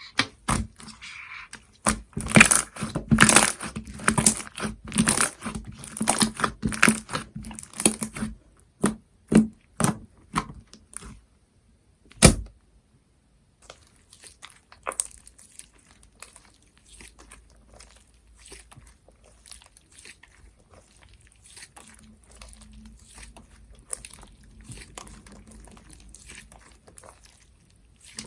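Hands squishing, stretching and pressing a light-blue water-jelly slime, with dense sticky clicks and crackling pops. There is one sharp thump about twelve seconds in and a short pause. Softer, fainter squishing follows.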